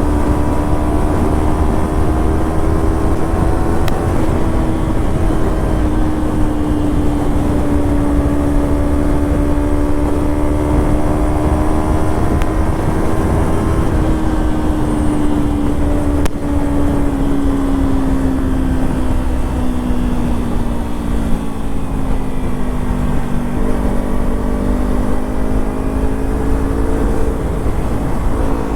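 Kawasaki Ninja 300's parallel-twin engine through a Yoshimura slip-on exhaust, running at steady high revs on the move, with wind rush on the microphone. The engine note holds steady, eases down about two-thirds of the way through, then picks up a little near the end.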